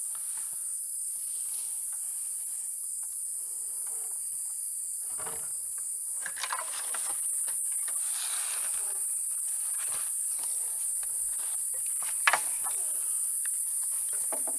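Insects chirring steadily at a high pitch, with scattered faint knocks and one sharp click near the end.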